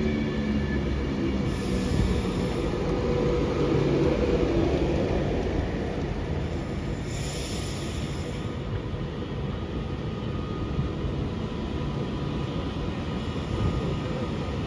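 A train running through the station: a steady rumble of wheels on rail, with a pitched machinery hum that is strongest over the first few seconds and then fades under the rumble.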